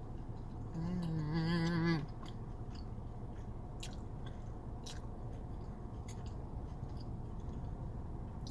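A person burps once, a pitched belch lasting about a second, then goes on chewing food with soft mouth clicks.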